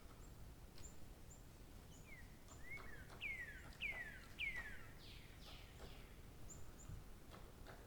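A songbird singing a run of about six clear whistled notes, each sliding downward, loudest in the middle, with short high chirps before and after, over faint outdoor background noise.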